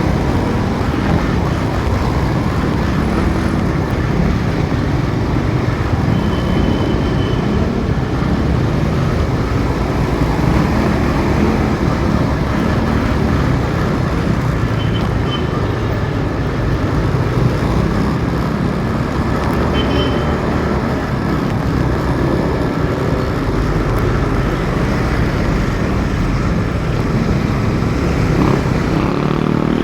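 Motorcycle riding through city traffic: the engine running steadily under heavy wind rush on the microphone. A few brief high-pitched tones sound during the ride.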